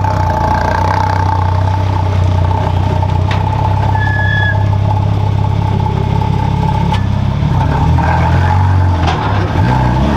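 Car engine running at a steady, held speed, its note beginning to waver near the end.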